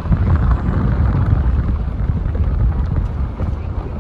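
A car driving, with low, steady road noise and wind on the microphone.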